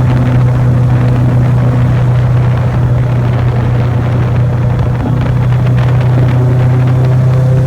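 Airboat's engine and open air propeller running steadily at speed: a loud, even, low drone.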